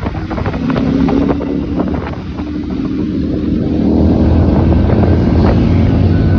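Motorcycle engine running at a steady speed while riding, with wind buffeting the microphone; the engine gets a little louder about four seconds in.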